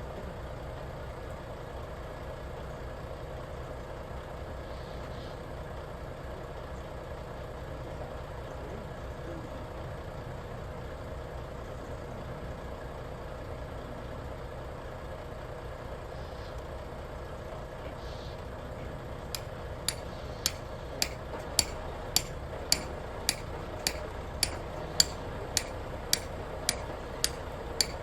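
Engine of the machine lowering the big stones, likely a truck-mounted crane, running steadily. About two-thirds of the way in, a sharp, regular ticking starts, a little under two ticks a second.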